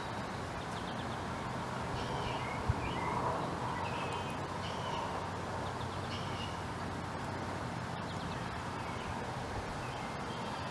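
Small birds giving short high chirps every second or so over a steady low outdoor hum, with a single sharp knock about two and a half seconds in.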